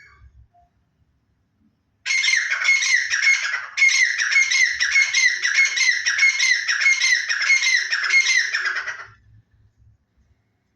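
Black francolin calling: a loud run of quickly repeated notes, about three a second, starting about two seconds in and stopping about two seconds before the end, with a brief break near four seconds.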